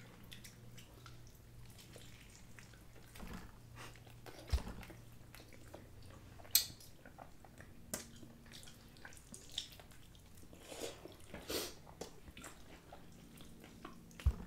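Close-up mouth sounds of people chewing and biting into breaded fried chicken wings: scattered soft clicks and wet smacks at irregular intervals, over a faint low hum.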